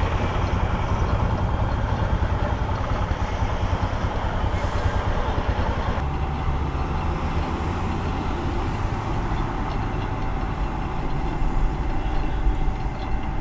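Motorcycle engine running with road and wind noise, picked up by the rider's camera while riding. The sound changes abruptly about six seconds in, after which a steady whine appears above the rumble.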